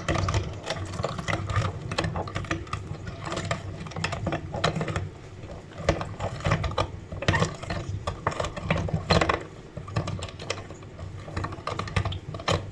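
Meat grinder running and grinding: a fast, irregular crunching and clicking over a steady low motor hum.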